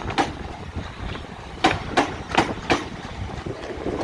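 Southern Class 377 electric multiple unit moving through the station over a low rumble, its wheels clicking over rail joints in quick pairs of clicks about one and a half seconds in.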